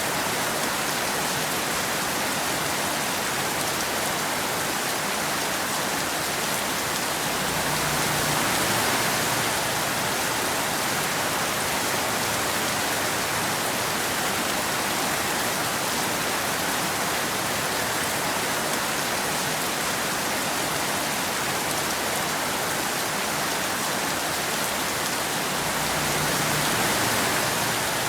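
Steady rain falling on a surface, an even dense hiss with no thunder, swelling slightly twice.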